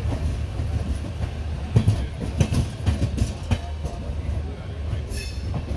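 Passenger train heard from aboard a moving coach: a steady low running rumble, with a run of sharp wheel clicks over rail joints from about two to three and a half seconds in.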